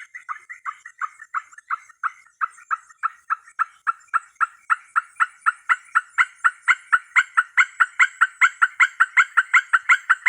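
An unidentified animal call: a long run of identical short notes, about four or five a second, growing steadily louder over the first eight seconds or so. A faint high steady tone sits above it.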